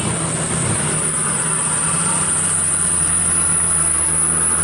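Heavy truck engine running steadily at low revs, a constant low hum, with a steady high-pitched hiss above it.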